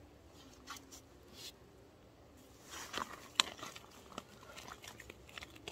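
Light rustles and scattered clicks from hands working a raw leg of lamb, pushing it onto a spit against its membrane, with one sharp click about three and a half seconds in.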